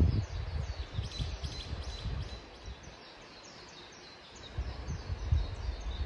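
Small birds calling, a run of quick, high, downward chirps repeating over and over. Wind buffets the microphone as a low rumble at the start, dies away briefly mid-way and picks up again near the end.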